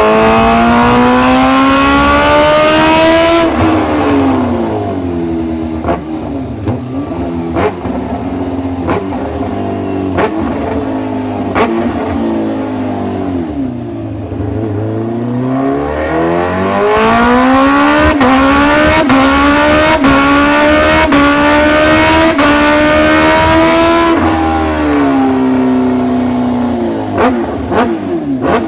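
Motorcycle engine pulling hard, its pitch climbing steadily, then easing off with a run of sharp clicks as it slows, and pulling up again through a long second climb before backing off near the end.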